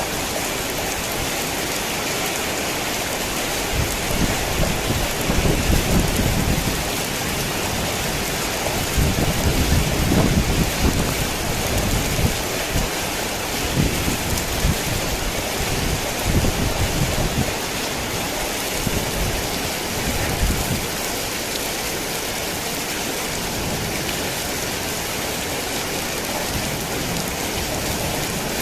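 Heavy rain falling steadily, with low rolling thunder that swells and fades repeatedly from a few seconds in until the last third, then only the rain.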